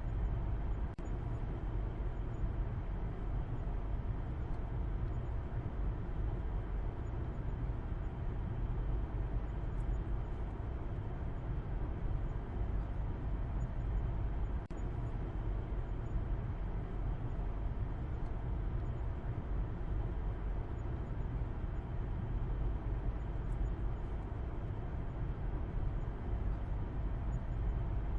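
Steady car driving noise: an even low rumble of engine and tyres on the road, with a softer hiss above it and no distinct events.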